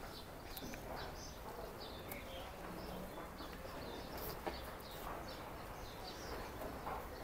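Small birds chirping in many short, scattered calls over a steady low background noise, with one sharp click about four and a half seconds in.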